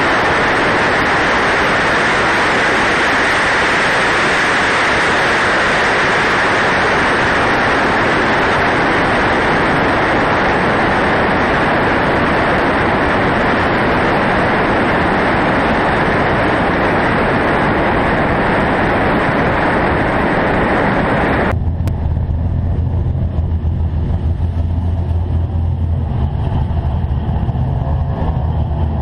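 Loud, distorted rush of engine and wind noise from inside a V8 car driven hard at speed. About 21 seconds in it cuts abruptly to a V8 idling low and steady.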